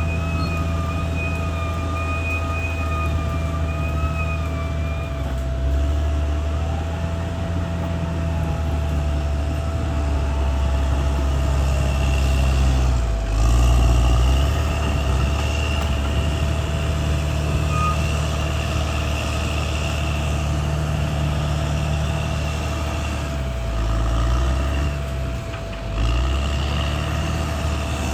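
Caterpillar D6R XL bulldozer's diesel engine running under varying load, its pitch dipping and recovering about halfway through and again near the end, with a steady high whine from the machine running alongside.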